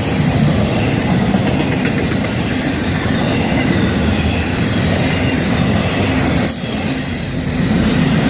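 Florida East Coast Railway freight cars rolling past at a grade crossing: a loud, steady noise of steel wheels running on the rails.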